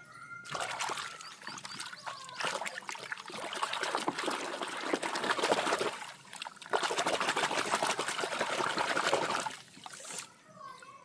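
Water running and splashing as toys are washed, stopping briefly about six seconds in and ending shortly before the close.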